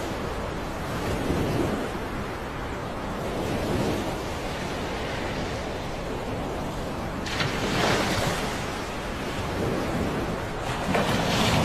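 Floodwater rushing, with wind buffeting the microphone. The rush swells louder for a second or so about two-thirds through, and again near the end.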